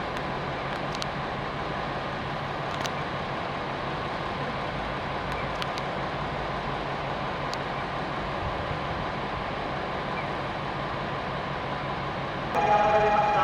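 A train running steadily at the station platform, with a few light clicks. Near the end a louder station signal with held tones sets in suddenly.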